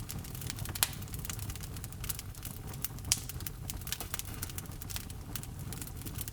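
Wood fire crackling in a fireplace: dense small pops and snaps over a low rumble of flames, with two sharper, louder pops, one about a second in and one about three seconds in.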